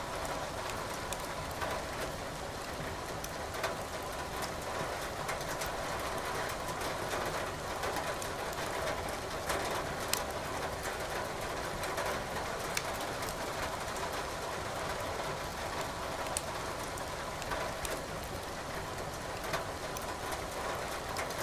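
Steady rain hiss with occasional sharp crackles and pops from firewood burning in a fireplace, over a low rumble.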